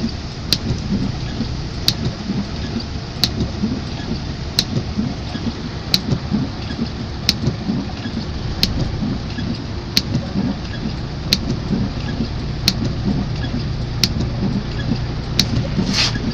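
Heavy rain with a steady low rumble, and a sharp click that repeats about every one and a third seconds.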